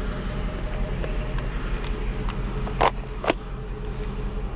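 A vehicle engine idling steadily with a low hum. About three seconds in come two short knocks, half a second apart, like items being handled.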